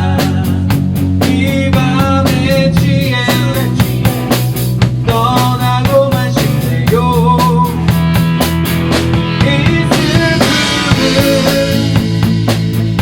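Rock band playing live in rehearsal: a drum kit keeping a steady beat under bass and a melodic lead line, with a cymbal wash building about ten seconds in.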